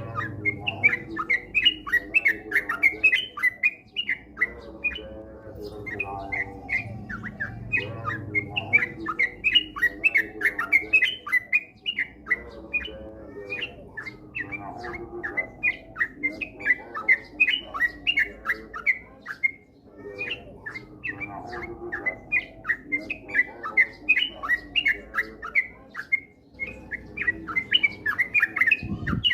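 Yellow-vented bulbul (trucukan) song: quick bubbly chirping phrases repeated almost without pause, with a lower warbling layer underneath.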